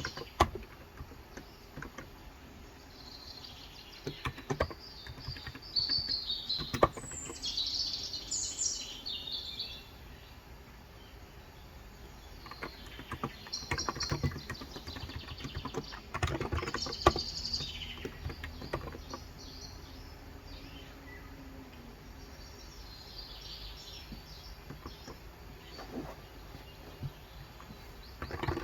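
Birds chirping in several short bouts of high-pitched calls, with intermittent bursts of typing on a Cox Endeavour 35 g electro-capacitive tenkeyless keyboard and a few sharper single keystrokes.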